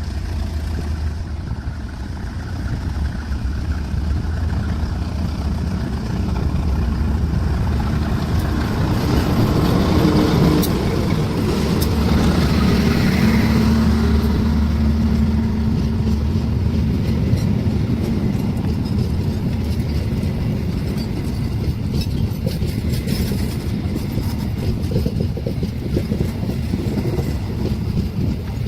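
Heavy diesel engine running with a steady low rumble, growing louder about a third of the way in and easing a little towards the end.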